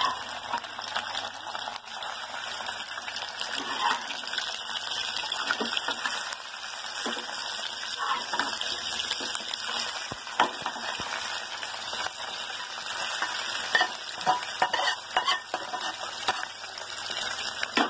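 Prawns shallow-frying in hot oil in a kadai, a steady sizzle throughout. A metal spatula scoops them in, scraping and tapping against the pan, with a run of sharp taps in the second half.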